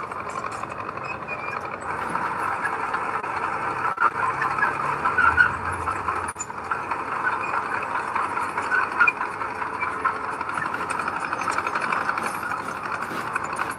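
Heavy earth-moving machinery running steadily, a diesel engine with a dense, rapid mechanical clatter; a deeper rumble swells briefly about four to six seconds in.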